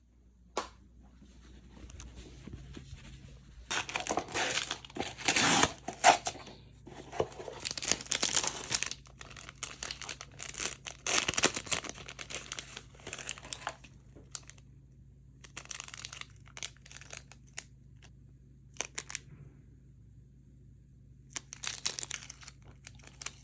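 Packaging being handled, crinkling and tearing in repeated bursts with short pauses between them.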